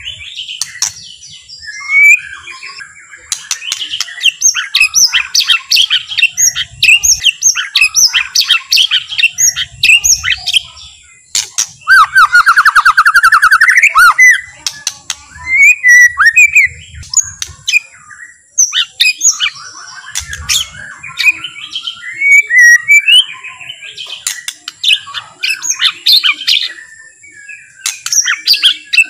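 White-rumped shama singing a relaxed, unhurried song of varied whistles, chirps and harsh clicking notes, with a fast rattle of rapid notes rising in pitch about halfway through.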